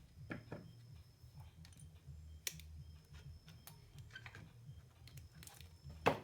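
Scattered small clicks and taps of hand tools and wires being handled during wiring work on an amplifier, the sharpest near the end, over a low steady hum.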